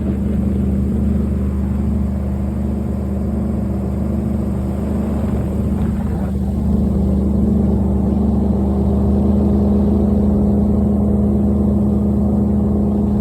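Engine running steadily at a constant speed, a loud, even drone with no change in pitch.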